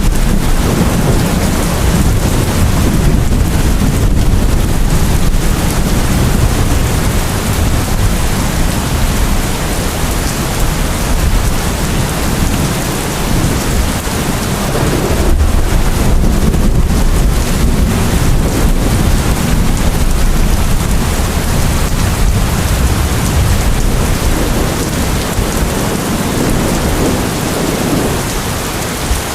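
Heavy rain falling steadily, with a continuous deep rumble of thunder beneath it.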